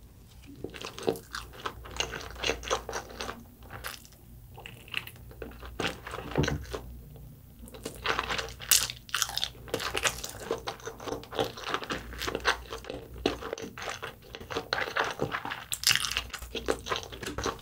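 A person chewing a mouthful of sushi, with many short wet mouth clicks.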